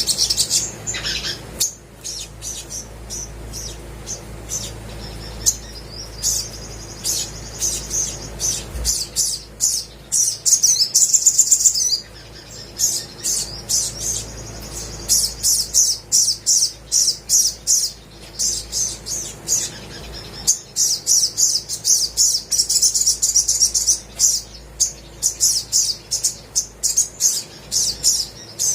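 Olive-backed sunbird singing steadily: runs of rapid, high-pitched chirps and sharp notes in repeated bursts, with a fast trill a little before the middle.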